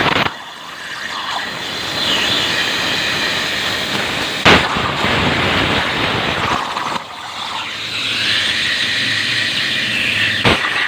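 CNC plasma cutter cutting steel: a steady loud hissing arc with a thin high whine through it, a sharp crack about four and a half seconds in, and brief drops in level just after the start and around seven seconds.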